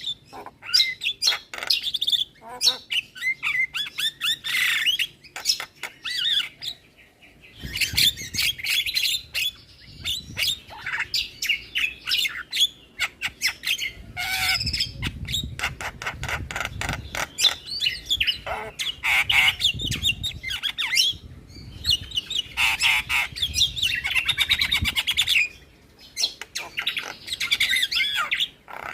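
Javan mynas singing a fast, non-stop song of chirps, harsh squawks, clicks and whistles, broken by a couple of short pauses. A low rumble sits beneath the middle stretch.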